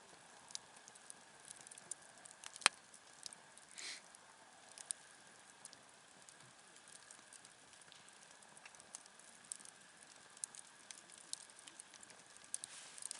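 Wood campfire crackling quietly with scattered small pops. One sharp, louder pop comes about two and a half seconds in, and a short hiss just before four seconds.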